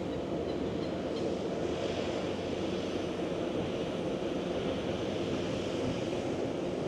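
Steady outdoor city ambience: an even, continuous rush of noise with a low hum, such as distant traffic.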